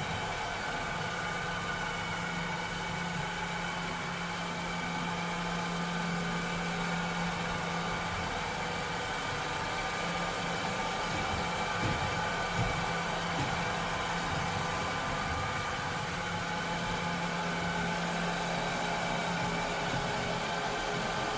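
Robot vacuum cleaner running steadily: an even whir of motor and fan with several steady whining tones over it. A low hum underneath fades out for a while around the middle and comes back.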